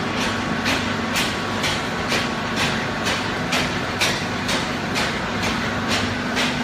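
Horizontal baler machinery running: a steady hum with a sharp, regular clack about twice a second.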